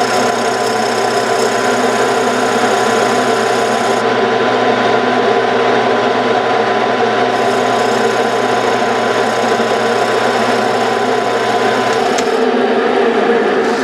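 Metal lathe running steadily while turning a small wooden toy-tractor wheel centre, the cutting noise thinning for a few seconds midway. Its steady motor hum stops about twelve seconds in.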